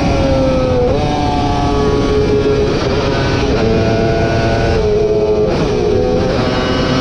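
Racing motorcycle engine running at high revs, its pitch sliding and stepping abruptly several times with throttle and gear changes, over a loud rushing noise.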